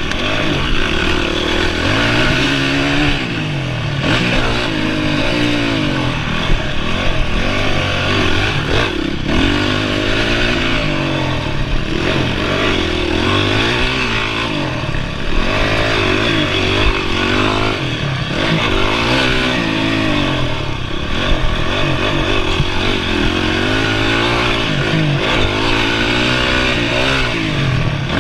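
Honda CRF 450R's single-cylinder four-stroke engine being ridden hard on a motocross track. It revs up and falls back over and over, the pitch climbing and dropping every second or two as the throttle is opened and chopped through gear changes.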